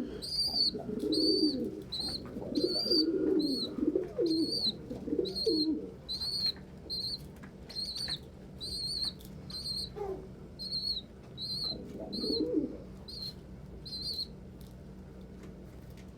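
Domestic pigeons cooing, mostly in the first six seconds and once more near the end, over a run of short, high peeps repeated about twice a second that stop a couple of seconds before the end.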